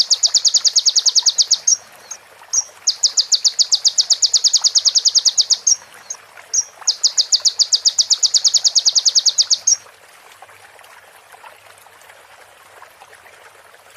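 Kolibri ninja sunbird (konin) singing rapid high trills of evenly repeated notes, about eight a second. One trill ends a couple of seconds in, two more follow of about three seconds each, and the song stops about ten seconds in.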